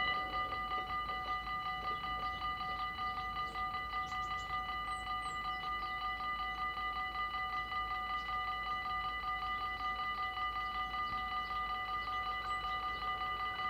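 Dutch level-crossing warning bell ringing in quick, even strokes that run on without a break.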